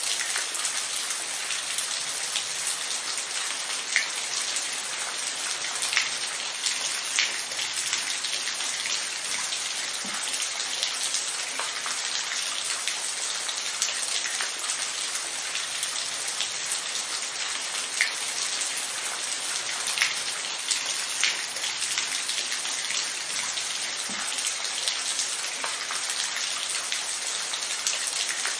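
Steady rain falling, with scattered louder individual drops hitting a surface now and then.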